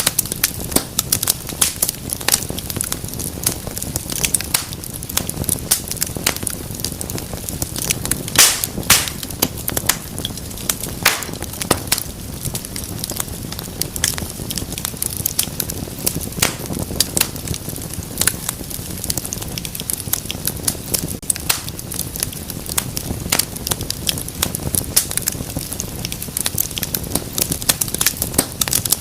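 Wood fire burning in a fireplace, a steady low rumble of flame with dense, irregular crackles and pops, one louder pop about eight and a half seconds in.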